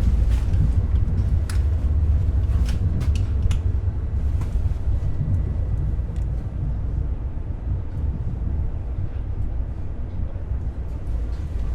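Ivolga electric multiple unit heard from inside the carriage while running: a steady low rumble from the running gear, with scattered sharp clicks and knocks from wheels over the track. The clicks grow sparser and the rumble eases slightly toward the end.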